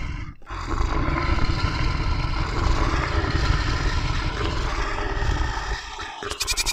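A long, deep, rasping animal roar or growl, a stock animal sound effect, starting about half a second in and lasting roughly six seconds. Near the end it gives way to a bleat.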